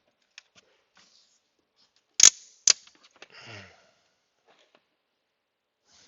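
Two sharp clicks of hand tools or parts being handled, about half a second apart, followed by a short rustle and a few faint ticks.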